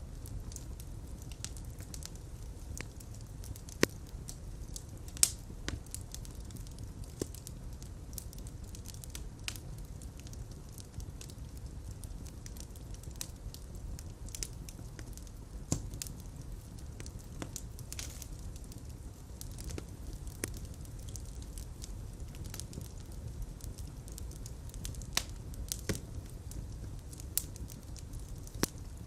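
Fire burning in a fireplace: a steady low rumble of flames with scattered sharp crackles and pops, a few louder pops standing out.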